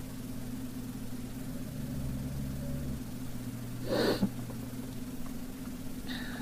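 Steady low electrical hum from the recording setup, with one short, sharp breath or sniff close to the microphone about four seconds in.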